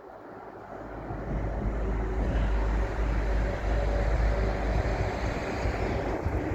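A train approaching on the line: a deep, steady rumble that swells about a second in and then holds loud.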